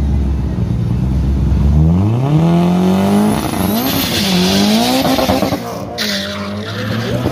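A drag-racing street car's engine held at steady revs on the start line, then launching: the pitch climbs, drops back at two gear changes, and climbs again as the car pulls away down the strip.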